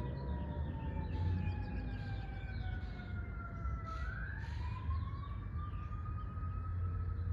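A siren wailing, its pitch falling slowly and then rising again about halfway through, over a steady low rumble with faint bird chirps.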